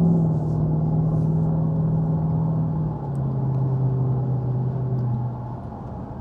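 Jaguar XK8 V8 engine and exhaust droning steadily under acceleration, heard from inside the cabin over tyre and road noise. About three seconds in, the automatic gearbox shifts up and the engine note drops to a lower pitch, then it gets a little quieter near the end.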